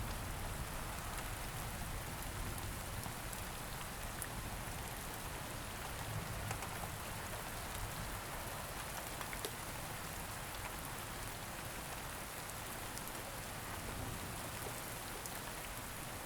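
Steady rain falling, with a soft even hiss and many small drop ticks scattered through it.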